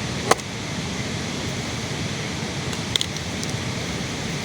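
Steady hiss of heavy rain. There is a sharp click about a third of a second in and a fainter one about three seconds in.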